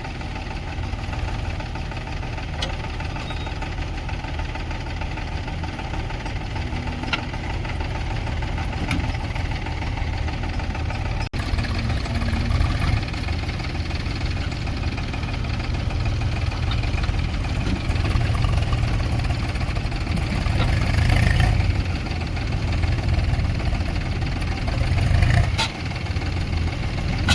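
Diesel engines of a backhoe loader and tractors running continuously, the deep rumble swelling and easing as they work.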